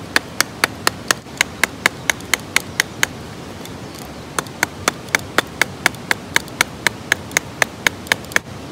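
A blade being struck again and again to split a piece of hard kindling wood: sharp, rapid knocks, about four a second, in two runs with a short pause between them. The wood is hard and is not splitting.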